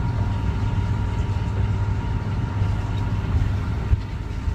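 Strong, snow-laden wind buffeting the microphone as a steady low rumble.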